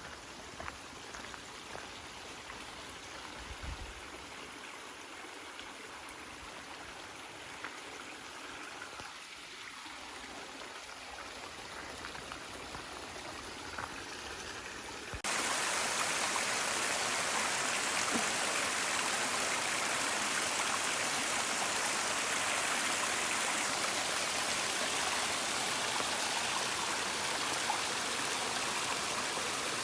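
Running water like a stream, an even rushing hiss. About halfway through it jumps suddenly louder and fuller.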